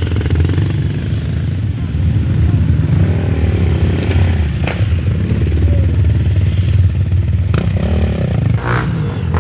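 Enduro motorcycle engine running steadily close by, its pitch wavering slightly, with a few brief knocks or clatters over it.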